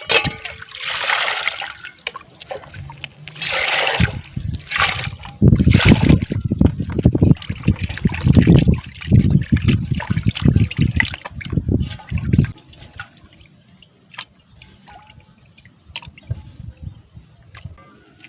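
Water trickling and pouring, then several seconds of heavy sloshing and splashing about five seconds in, as prawns are washed by hand in a vessel of water. Small clicks and drips follow near the end.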